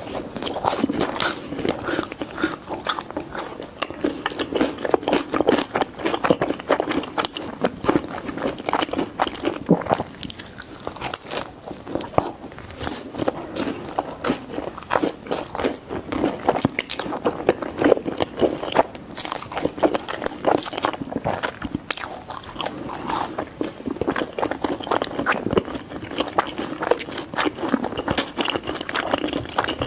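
Close-miked chewing and biting of pizza: moist, crunchy bites and steady mastication with irregular crackles.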